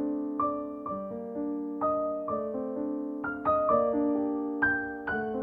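Background music: a gentle piano melody, notes struck about twice a second over sustained chords.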